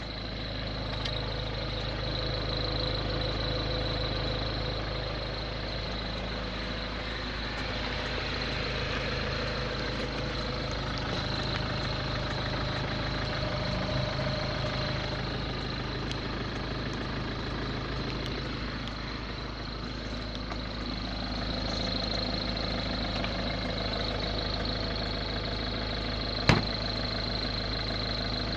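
Ford Focus 1.6 TDCi four-cylinder turbodiesel engine idling steadily, with a thin high-pitched whine over it and one sharp click near the end.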